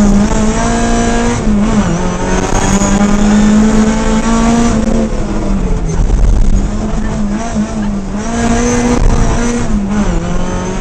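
Ford rally car's engine heard from inside the cabin, held at high revs, its pitch dropping briefly several times as the driver lifts or changes gear.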